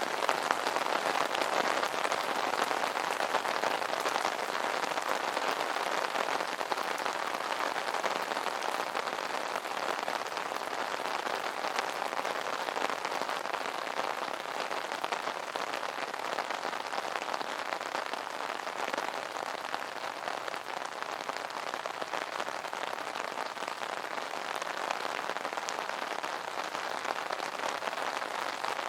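Steady rain drumming on an umbrella's fabric canopy: a dense, even patter of many small drop hits.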